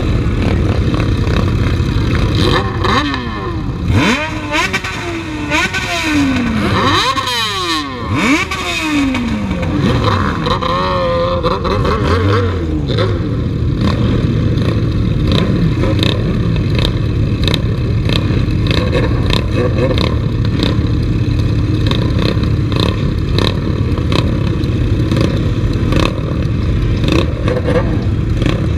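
Motorcycle engines revved hard at a standstill, with several quick rises and falls in pitch over the first dozen seconds. After that the engines are held high against the rev limiter, cutting in and out in rapid stutters.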